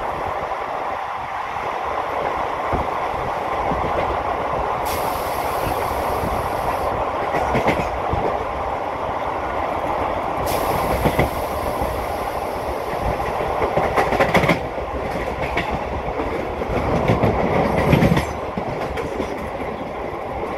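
Passenger train coach running along the track, heard from its open door or window: a steady rumble of wheels on rail with a few sharp clacks over rail joints.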